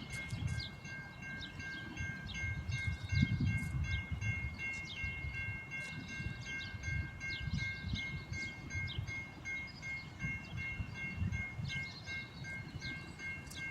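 Railway level-crossing warning bell ringing, a fast even ding repeating throughout, signalling an approaching train. Birds chirp over it and wind buffets the microphone.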